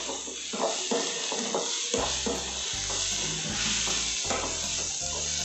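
Onion and spice masala frying in oil in a metal kadai, sizzling steadily while a metal spatula stirs and scrapes it around the pan in repeated strokes.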